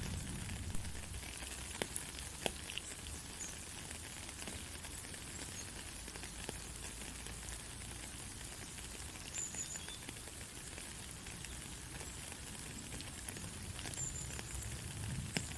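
Heavy rain falling steadily as an even hiss, with a few sharp drop ticks, several of them in the first few seconds and one near the end.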